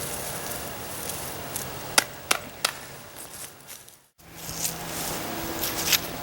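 Hands rustling through potting soil and vines while digging out sweet potatoes, with three sharp knocks about two seconds in. The sound drops out briefly just after the middle, then the rustling resumes.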